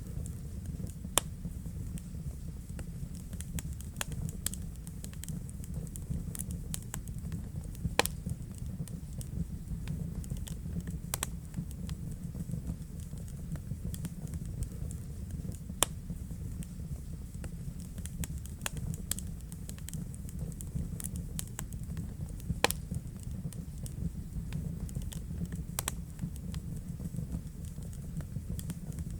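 Wood fire crackling in a fireplace: a steady low rumble of burning, with frequent sharp pops and snaps and a few louder cracks scattered through.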